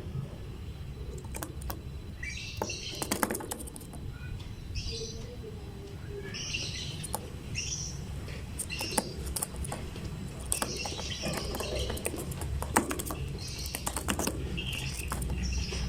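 Lovebirds chirping in short, scattered bursts, with many sharp clicks and ticks between the calls over a steady low rumble.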